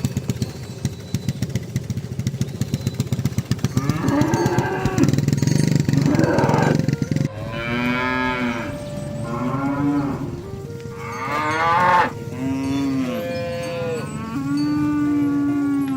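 Several cattle mooing, with long, drawn-out calls that overlap one another from about four seconds in. Before that there is a rapid rattling noise.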